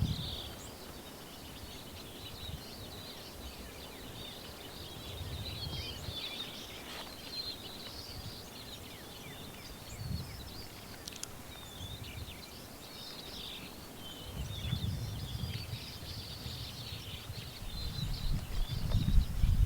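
Small songbirds chirping and twittering busily, with low gusts of wind buffeting the microphone now and then, strongest near the end.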